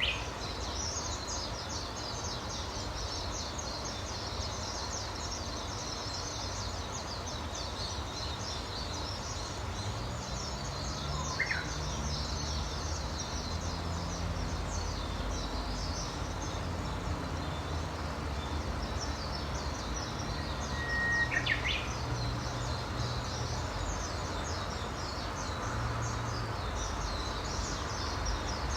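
Wild birds singing: dense high chirping throughout, with a few louder calls standing out near the start, about 11 seconds in, and about 21 seconds in, where one bird holds a short whistle that breaks into quick up-and-down notes. A steady low rumble lies underneath.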